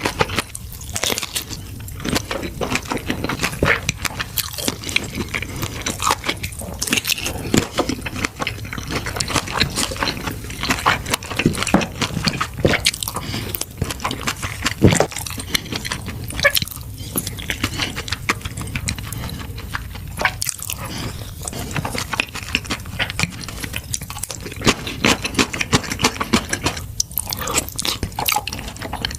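Close-miked mouth sounds of a person eating, chewing and biting, with many quick wet clicks and smacks in an uneven stream.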